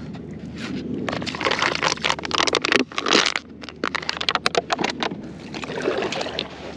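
Water splashing and a run of irregular knocks, clicks and scrapes against a plastic Hobie Outback kayak.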